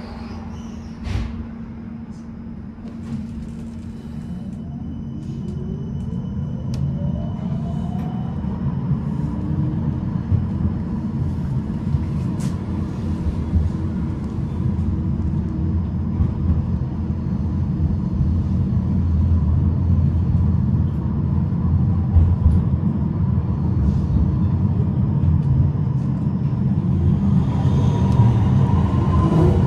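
Tram pulling away and accelerating: an electric motor whine rises in pitch a few seconds in, and the low rumble of the wheels on the rails grows louder as it picks up speed. There is a brief higher-pitched noise near the end.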